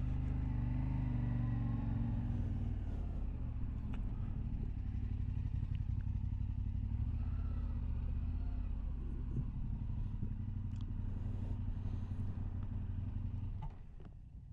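Motorcycle engine idling steadily, then dropping away sharply near the end.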